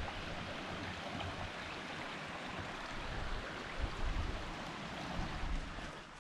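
Steady rushing of running water, as from a brook, with uneven low rumbles underneath.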